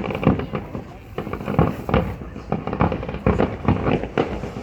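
Fireworks going off in a rapid, irregular string of bangs, several a second.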